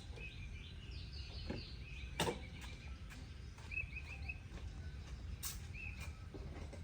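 Birds chirping over a steady low background rumble, with a couple of sharp clicks, the loudest about two seconds in and another a little past five seconds.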